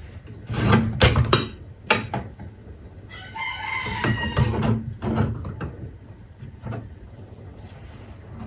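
A rooster crowing once, a drawn-out call about three seconds in, after a few sharp knocks of workshop tapping.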